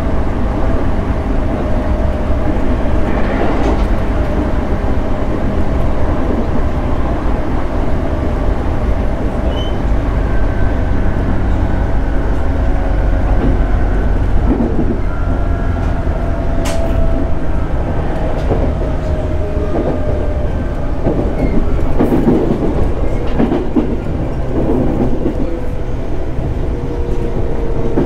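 JR Central 211 series 5000-subseries electric multiple unit running, heard from inside the car: a steady low rumble of wheels on rail with a faint motor and gear hum. Rail-joint clatter comes about two-thirds of the way through, and the hum slowly falls in pitch near the end.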